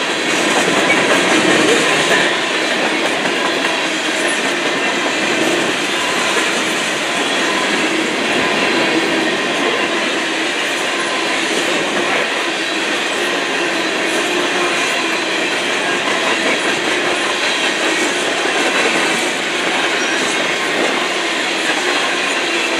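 Empty covered grain hopper cars of a freight train rolling past close by: a steady rumble and clatter of steel wheels over the rails, slightly louder for the first couple of seconds.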